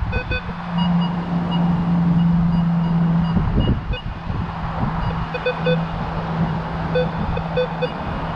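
Minelab Vanquish 440 metal detector sounding a steady low tone that swells and fades, with short higher beeps coming in several times. Wind noise runs underneath.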